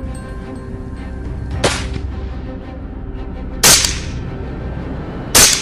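Three rifle shots about two seconds apart, the last two louder, each a sharp crack with a short decaying tail, over steady background music.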